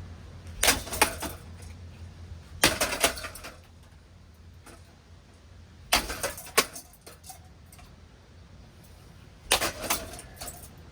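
Ceiling fan being smashed: four bursts of sharp metallic clattering and rattling, a few seconds apart, over a low steady hum.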